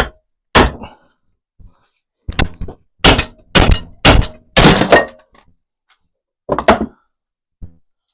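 A hammer striking the old bushes and fittings on a classic Mini's front lower suspension arm to knock them off, about ten dull blows in irregular bunches, the hardest close together around the middle.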